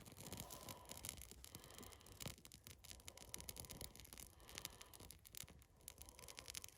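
Near silence, with faint, irregular crackles and scratches.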